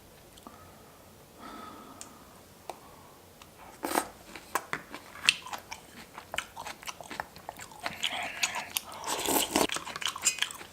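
Close-miked biting and chewing of crunchy kimchi: quiet at first, then a rapid, irregular run of wet crunches from about four seconds in, busiest near the end.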